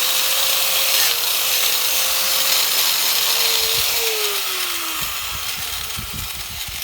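Angle grinder with a polishing wheel running against a cast-aluminium engine case: a steady motor whine over a loud hiss from the polishing. About four seconds in the whine drops in pitch as the grinder slows, and a few low knocks follow near the end.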